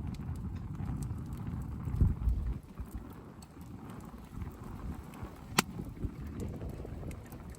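Wood campfire crackling over a low rumble, with scattered small ticks and one sharp pop about five and a half seconds in. A dull low thump stands out about two seconds in.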